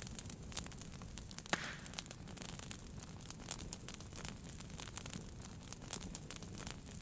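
Wood fire in a fireplace crackling, with irregular small pops and one louder pop about a second and a half in, followed by a short hiss.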